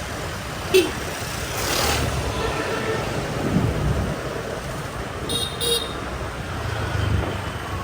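Busy motorbike street traffic heard from a moving motorbike: a steady rumble of engines and road. Short horn toots cut through, one just under a second in and two quick beeps a little past the middle.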